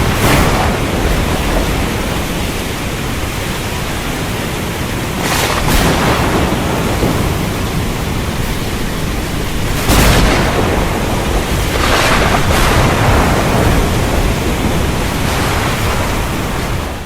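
Thunderstorm: a steady wash of heavy rain and wind, broken by several sharp thunder cracks with rumbling after them, the loudest about ten seconds in.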